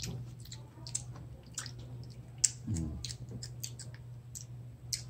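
Close-up eating sounds of people chewing mango: scattered short wet mouth clicks and lip smacks, with a brief low hum of the voice a little past the middle. A steady low background hum runs underneath.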